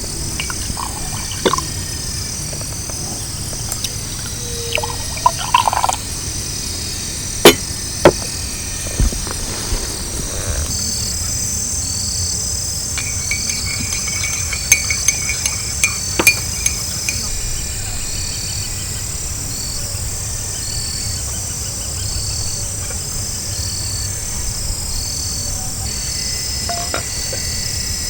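Night insects chirping in a steady, evenly repeating high pulse. A few sharp clicks or knocks stand out over it, the loudest two close together about a third of the way in.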